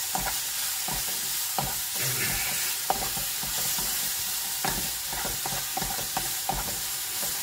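Grated onion and spices sizzling in oil in a pan, slowly sautéing, while a wooden spatula stirs them, scraping and knocking against the pan at irregular moments.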